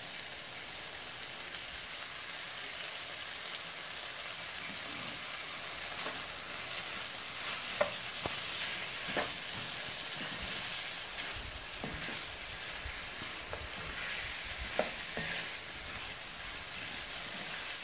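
Chicken and vegetables in a thick sauce sizzling in a nonstick wok as they are stir-fried, a steady frying hiss with occasional light clicks from the stirring.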